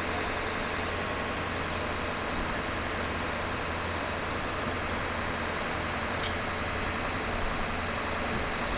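A vehicle engine idles steadily under constant street noise and tape hiss. One sharp click comes about six seconds in.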